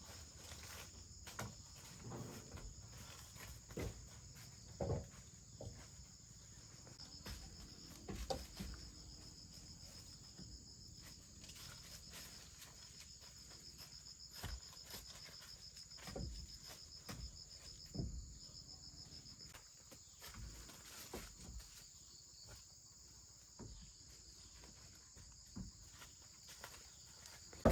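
Insects chirring steadily, with a fast pulsing trill for several seconds in the middle, over scattered soft knocks and thumps.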